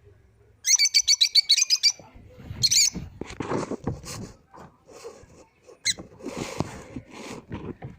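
Lovebirds chirping: a fast run of shrill, repeated chirps about a second in, a shorter burst near three seconds and a brief one near six seconds, with a stretch of rustling and knocking noises in between.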